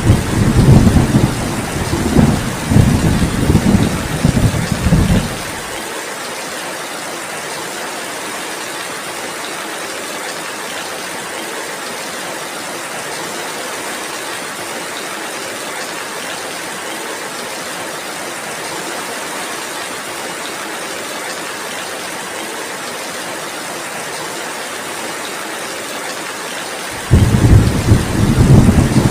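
Steady heavy rain hiss, with rolling thunder rumbling through the first five seconds or so, then rain alone until thunder starts again suddenly about two seconds before the end.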